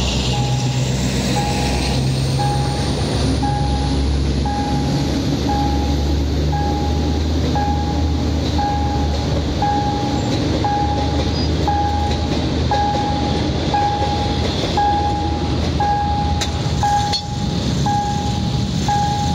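Diesel-hauled passenger train passing over a level crossing: the locomotive's engine rumbles in the first seconds, then the coaches roll steadily past. A crossing warning signal beeps about once a second throughout.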